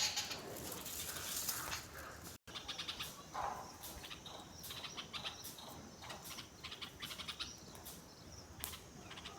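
Small garden birds chirping: quick, high-pitched chirps in rapid runs, with a momentary break in the sound about two and a half seconds in.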